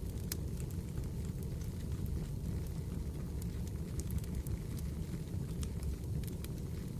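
Fireplace crackling: a steady low rumble of burning with scattered sharp pops and clicks.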